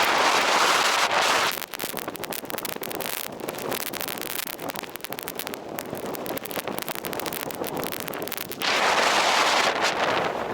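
Blizzard wind buffeting the microphone. It blows hard at first, eases after about a second and a half into a quieter, crackling stretch, then gusts up strongly again near the end.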